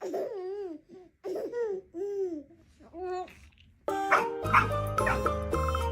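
A dog whining and yowling in a string of short, rising-and-falling calls, as if talking. Background music with a steady beat comes in about four seconds in.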